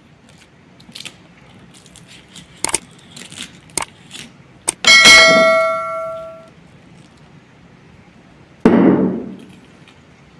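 A few light clicks, then a metal object struck once with a loud clang that rings for about a second and a half. A duller thump without ringing follows near the end.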